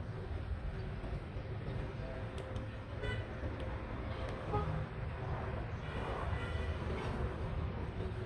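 Road traffic running steadily, with brief vehicle horn toots about three seconds in and again around six seconds in.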